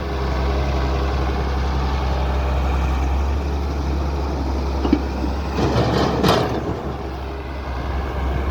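Heavy diesel machinery running steadily with a low engine drone. A sharp knock comes about five seconds in, then a brief clatter about a second later.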